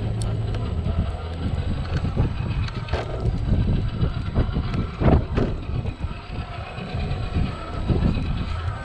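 Traxxas TRX-4 RC crawler driving over wet rocks: a steady low rumble from its motor and drivetrain, with an irregular clatter of knocks as the tires climb. A louder thump about five seconds in.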